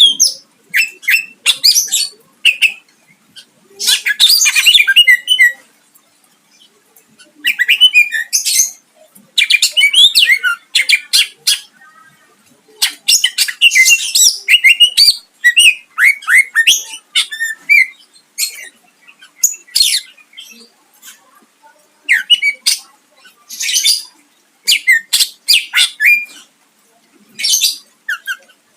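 Greater green leafbird (cucak ijo) singing in loud bursts of quick, varied whistled and harsh phrases, with short pauses between them. It sings a full repertoire that includes borrowed songs of other birds.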